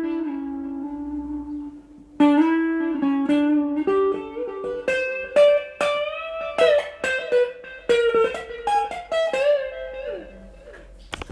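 Guitar playing a single-note melody. One note rings for about two seconds, then a run of plucked notes climbs in pitch, with a few notes bent or slid, and the playing dies away near the end.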